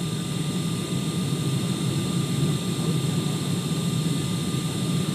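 Steady low drone of engines and airflow heard inside the cabin of a Boeing 747-400 on final approach.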